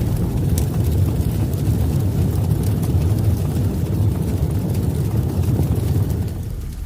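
A deep, steady low rumble, like an intro sound effect, that fades toward the end.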